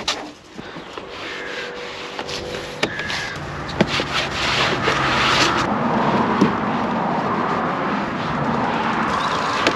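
Rubbing and scrubbing against a surface while cleaning a car, starting patchy and becoming a steadier, denser noise about halfway through.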